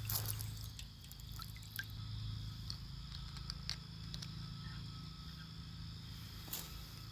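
Small solar-powered fountain pump in a bird bath, its spray head spitting water that trickles and drips back into the basin, with scattered small drip ticks. The pump runs weakly because the solar panel is getting too little sunlight.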